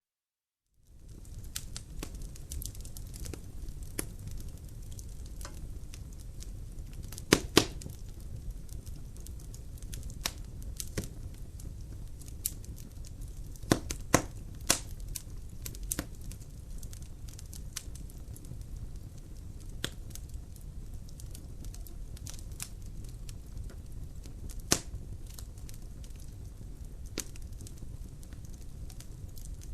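Wood logs burning in a fireplace: a steady low rumble of flames with irregular sharp crackles and pops, the loudest a quick pair about a quarter of the way in. The sound comes in after about a second of silence.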